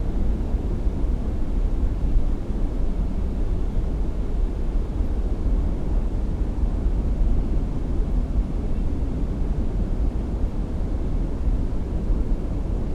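Steady low rumble of a boat's outboard engine running.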